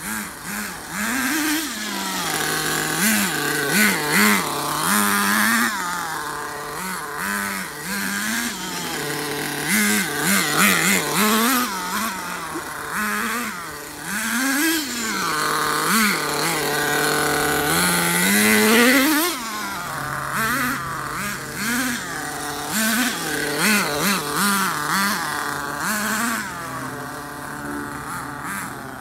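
HSP monster truck's 0.18 nitro engine running under throttle, revving up and dropping back to idle over and over in short blips, with a few longer climbs.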